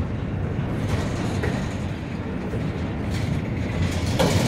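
Double-stack intermodal well cars of a freight train rolling past, a steady noise of steel wheels running on the rails.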